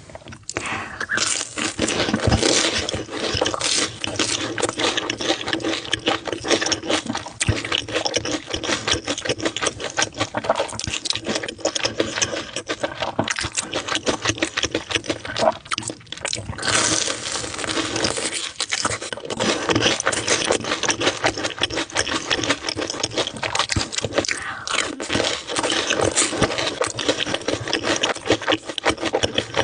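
Close-miked eating: continuous crunching and chewing, a dense run of irregular crackles and clicks that pauses briefly about halfway through.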